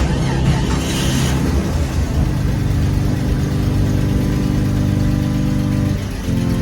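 Jeep Cherokee XJ engine running steadily with a low, even hum. Its tone shifts about six seconds in.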